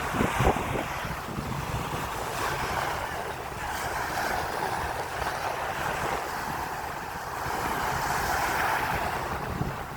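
Sea surf washing in, a steady rush that swells and eases, with wind buffeting the microphone in low gusts, strongest just after the start.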